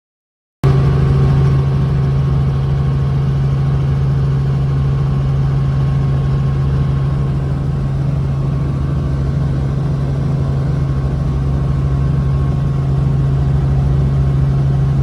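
An engine running steadily at an even speed with a strong low hum. It cuts in suddenly about half a second in after total silence.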